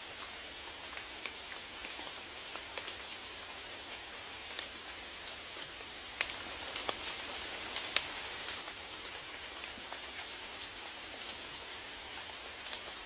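Steady rainfall hiss with scattered individual drops ticking sharply on a surface, a little heavier for a couple of seconds around the middle.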